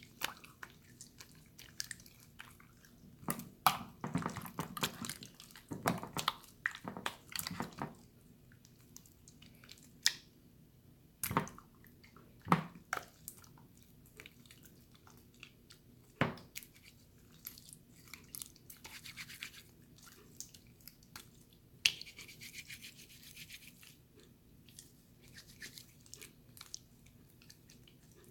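Watery slime being squished and worked by hand: irregular wet clicks, pops and squelches, busiest in the first few seconds, with a short hissy crackle about three-quarters of the way through.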